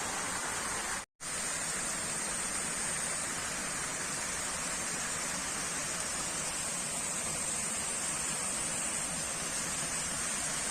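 Steady rushing noise with a high hiss on top, cut by a moment of total silence about a second in.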